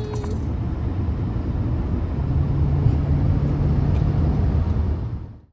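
Steady low rumble of a moving vehicle heard from inside, fading out near the end.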